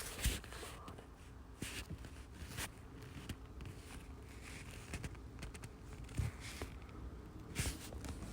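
Faint scattered clicks and short rustles over a low steady hum, with sharper clicks about six and nine seconds in.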